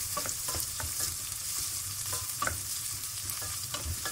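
Sliced onions sizzling in hot oil in a stainless steel pot while a wooden spatula stirs them. The steady sizzle is broken by irregular taps and scrapes of the spatula against the pot, about two a second.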